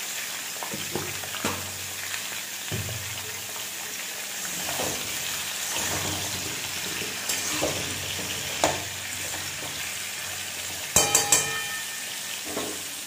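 Whole small potatoes frying in oil in a metal kadai, sizzling steadily, while a metal spatula stirs and scrapes them against the pan. Near the end a few sharp metallic clanks ring out.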